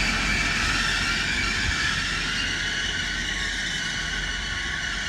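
Class 180 diesel multiple unit running at the platform, a steady rumble with a faint whine, slowly fading.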